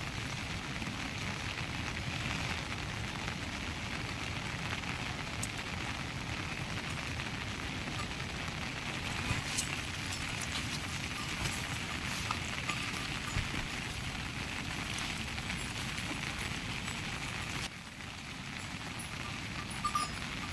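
Steady rain falling on surfaces: a continuous hiss with scattered drop ticks. Near the end it drops suddenly to a lower level.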